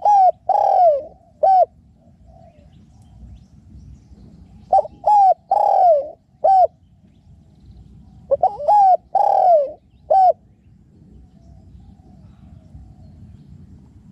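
Spotted dove cooing: three phrases of short coos with one longer, falling croo in each, repeated about every four to five seconds.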